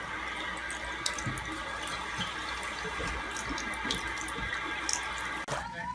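Tap water running steadily into a sink, with small splashes and drips ticking through it; it cuts off abruptly near the end.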